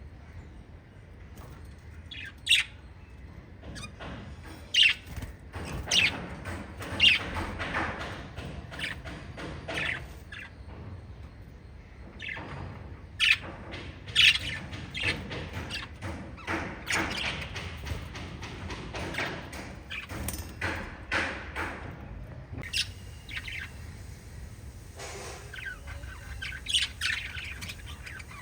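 Several budgerigars chirping in quick runs of short, sharp calls, with a few louder calls standing out; the calling thins out near the end. A steady low hum runs underneath.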